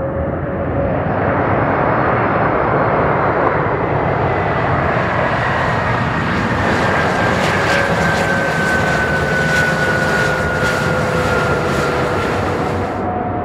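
Airbus A330-300 airliner with Rolls-Royce Trent 700 turbofans passing close by: a loud, rushing jet noise that swells over the first couple of seconds, with whining tones that slowly fall in pitch as it goes past.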